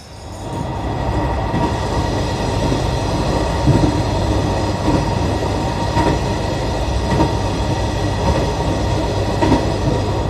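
Hisatsu Orange Railway diesel railcar (the Orange Restaurant train) running along the line, heard on board: a steady loud rumble with a constant whine, starting about half a second in, and a few sharp clacks as the wheels pass rail joints.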